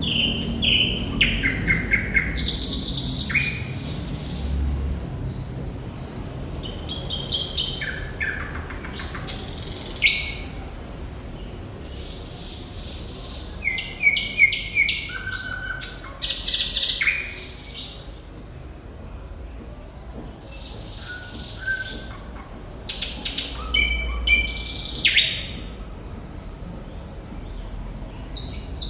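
Thrush nightingale singing: a run of separate high phrases built from fast repeated notes, dry clicking rattles and short whistles, with brief pauses between phrases.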